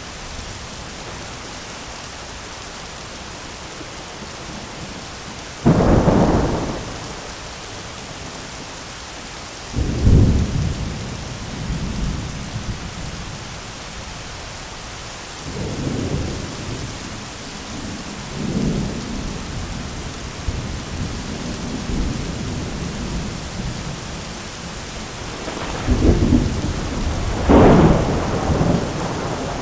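Thunderstorm: steady rain hiss with repeated sudden thunderclaps and rumbles, about six in all, the loudest about six seconds in and a pair near the end.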